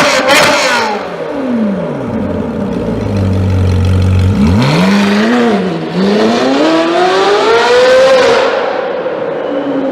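High-performance car engine being revved. Sharp crackles in the first second, then the revs fall away to a low idle. About halfway through it is blipped, then revved up steadily for about three seconds before the revs drop off.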